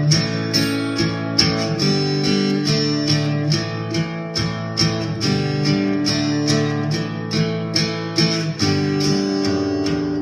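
Acoustic guitar strummed in a steady rhythm with pitched backing notes: an instrumental break between sung verses of a song.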